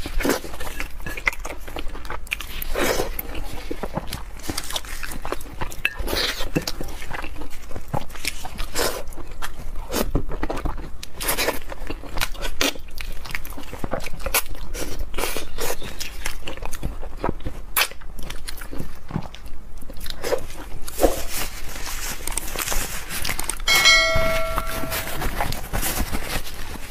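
Close-miked eating of spicy braised pork knuckle gnawed off the bone by hand: biting and chewing, with many short clicks and smacks. Near the end comes a brief ringing chime.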